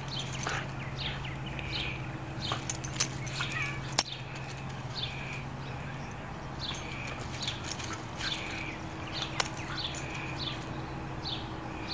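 A bird chirping over and over, short falling notes repeated about once or twice a second, over a steady low hum, with a couple of sharp clicks.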